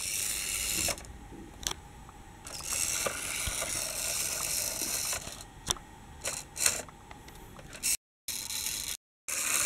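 Small plastic clicks and light ratcheting rattles of a toy tram's mechanisms, with two stretches of steady hiss.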